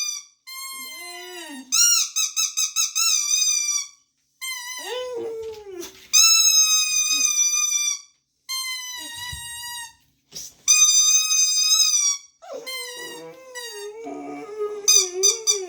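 A rubber duck squeaky toy squeaked again and again, some squeaks long and held and some in quick pulses, while a young boxer dog howls along to it. The howls are lower and waver and slide down in pitch, and the longest comes near the end, overlapping more squeaks.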